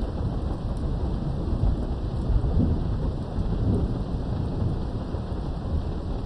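Thunderstorm heard from indoors behind a window: steady rain with a low, rolling thunder rumble that swells and fades.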